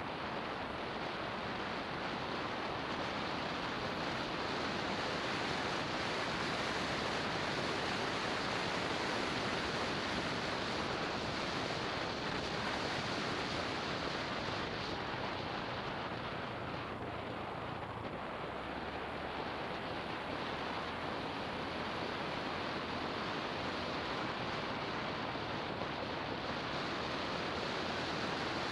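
Steady rush of riding wind over a Garmin VIRB 360 action camera's microphone on a moving motorbike, with road noise blended in and no distinct engine note standing out.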